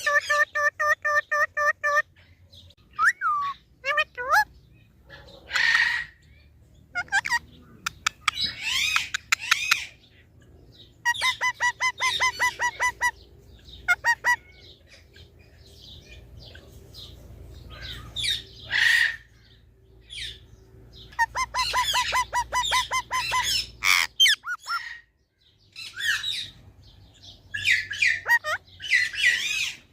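A pet parrot calling: three bursts of rapid, evenly repeated pitched chirps, each about two seconds long, with harsh squawks between them.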